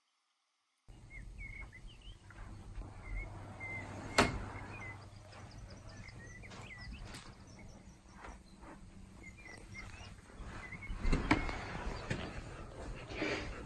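Outdoor ambience: small birds chirping again and again over a low rumble, starting after about a second of dead silence. There is a sharp click about four seconds in and a few louder thuds near the end.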